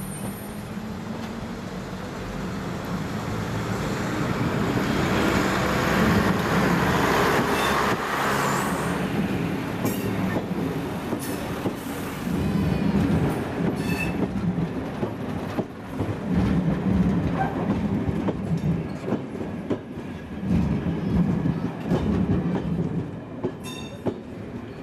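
A diesel train approaches and passes close by. Its engine noise builds to a peak about six to eight seconds in, then the coaches roll past with the clickety-clack of wheels over rail joints, coming in groups every second or two.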